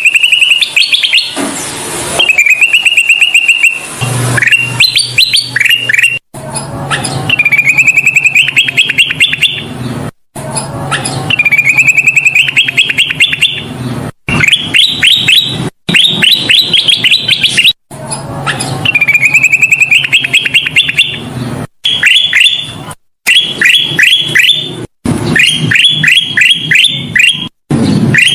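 Kutilang emas songbird singing loudly and without pause in rapid chattering phrases, each a fast run of sharp, rising chirps. The phrases are broken every few seconds by brief, abrupt silences.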